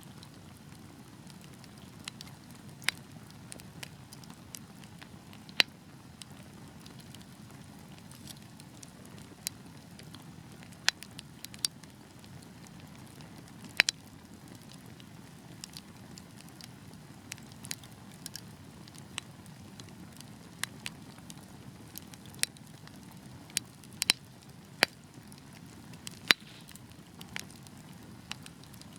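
Wood fire crackling: a low steady rumble of burning logs under irregular sharp pops and snaps, a few of them much louder than the rest.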